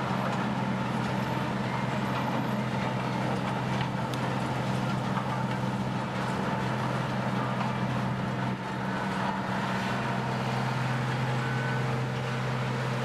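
A large whole-tree grinder's engine running steadily as a deep, even drone with noisy churning above it, dipping briefly about eight and a half seconds in.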